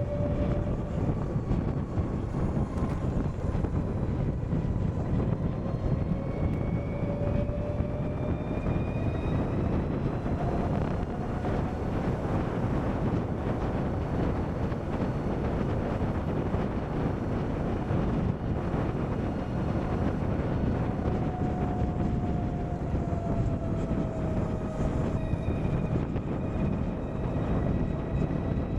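Harley-Davidson LiveWire electric motorcycle under way: a steady rush of wind over a chin-mounted helmet camera, with the electric motor's thin whine gliding up and down in pitch as the speed changes.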